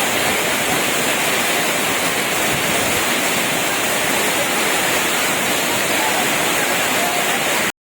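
Waterfall rushing: a steady, loud roar of falling water that cuts off abruptly near the end.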